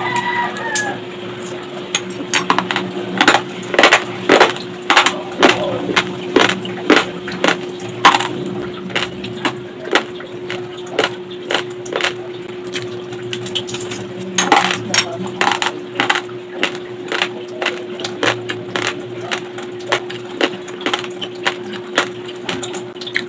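Close-up crunching of dry, raw long-grain rice being chewed: sharp, irregular cracks several times a second, with a steady low hum underneath.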